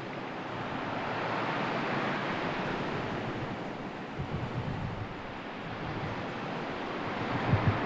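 Sea surf washing in, a broad rush that swells and eases, with wind buffeting the microphone in low thumps about four seconds in and again near the end.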